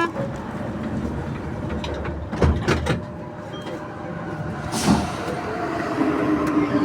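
Metro train doors sliding shut on an NS-93 car, with knocks about two and a half seconds in and again near five seconds as they close. Near the end a low steady hum comes in as the train starts to pull away.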